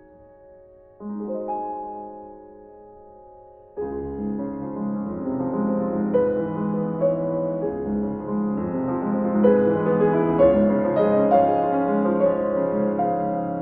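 Soft piano background music: a quiet held chord about a second in, then a fuller, more continuous passage from about four seconds in.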